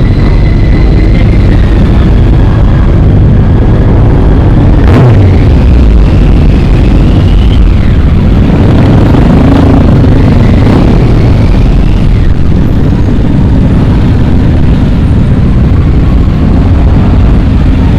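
Motorcycle riding along, with a loud steady low rumble of engine and wind buffeting on the microphone. A single sharp pop comes about five seconds in, and faint wavering high tones come and go over the rumble.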